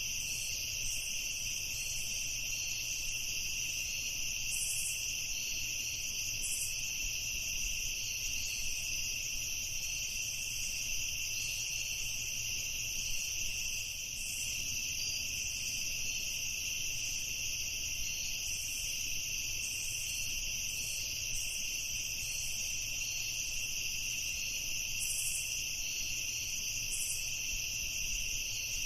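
Night chorus of crickets and other insects trilling steadily in two high, unbroken pitch bands, with a few brief higher chirps over it.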